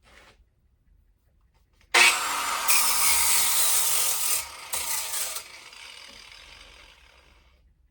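A power tool cutting or grinding, starting suddenly about two seconds in, dipping briefly partway, then winding down and fading over the next two seconds.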